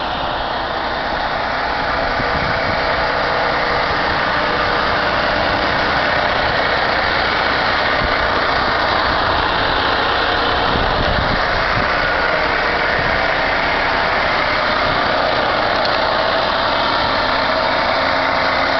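A truck's engine idling steadily, heard close by as an even mechanical drone.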